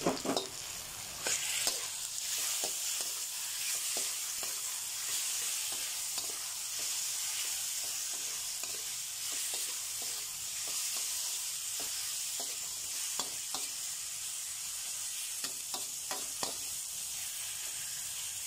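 Marinated chicken pieces and sliced onion sizzling in hot olive oil in a pan, with a steady hiss. A metal spoon stirring them clicks and scrapes against the pan, most often in the first couple of seconds.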